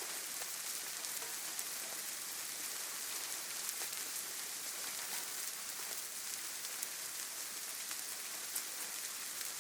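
Steady rain falling on leaves and ground, a dense even hiss with many small drop patters.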